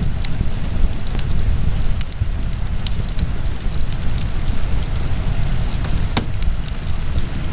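Fire burning in a fireplace: a steady low rumble with frequent small crackles and pops, and one sharper pop about six seconds in.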